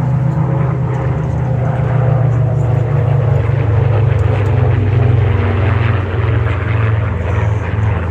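A formation of WWII piston-engine fighter planes flying past, their propeller engines making a loud, steady drone that swells toward the middle and sinks slightly in pitch as they go by.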